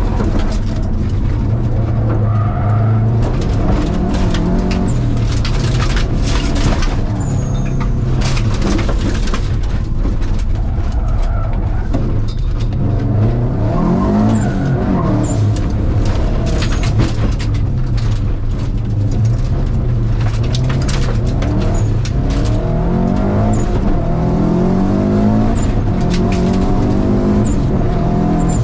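Subaru Impreza's flat-four engine heard from inside the cabin at racing speed, revving up and dropping back again and again through the gear changes. Frequent sharp knocks and rattles run through it.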